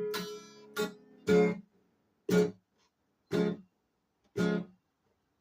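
Acoustic guitar playing slow blues: single short strummed chords about once a second, each stopped quickly, with near silence between them.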